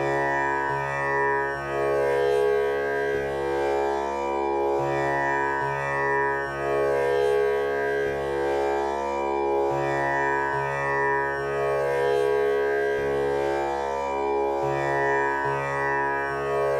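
Tanpura drone with sa tuned to C#, its strings plucked one after another in an unbroken cycle that repeats about every five seconds. Each pluck rings on in a buzzing, overtone-rich hum that stays steady throughout.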